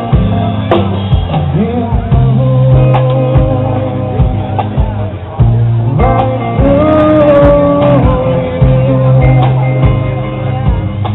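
Live rock band playing: drums, bass and guitar, with a melody of long held notes over a steady bass line.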